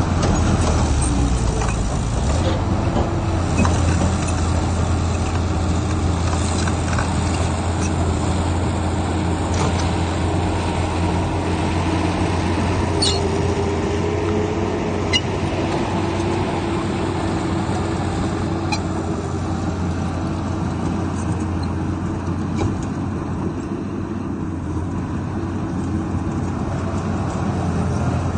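Heavy diesel earthmoving machinery running steadily under load, with a low hum and a few short sharp clinks of metal around the middle.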